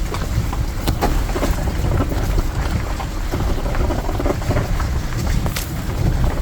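Ram ProMaster van driving on a rough, bumpy dirt road: a steady low rumble with frequent small knocks and rattles.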